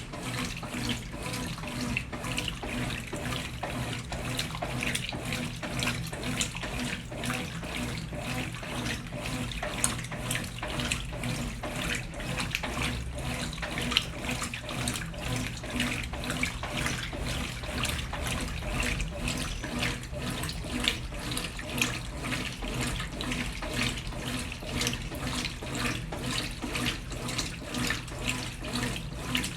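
Brastemp Ative 11 kg top-loading washing machine with water running and splashing steadily in its tub, over a low steady hum.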